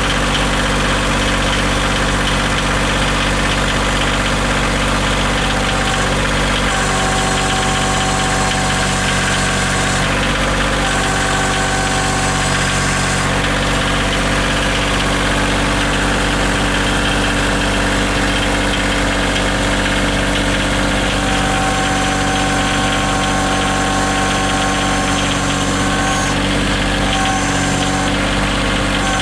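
Engine idling steadily, a constant low hum with higher tones that fade in and out every few seconds.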